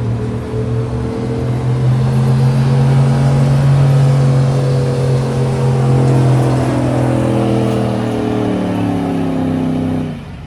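Showroom-stock gas pickup truck's engine under heavy load on a pull, its pitch climbing at first and then sagging over the last few seconds as it bogs down. The sound drops away sharply near the end.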